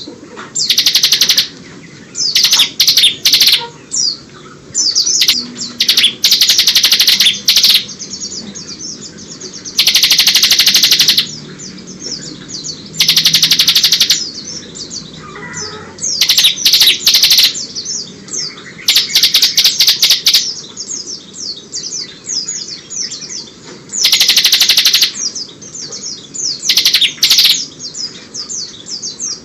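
Bar-winged prinia (ciblek) singing loudly in rapid, high trilling bursts of about a second each, repeated many times with sparser chirps in between; its song is filled with mimicked Oriental white-eye (pleci) phrases.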